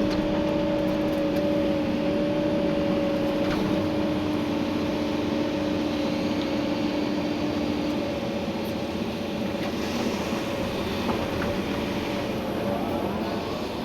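Komatsu PC290-11 excavator heard from the cab, its diesel engine running steadily under working load with a whine of two steady tones; the lower tone stops about two-thirds of the way through and the higher one near the end. A few faint clicks come through.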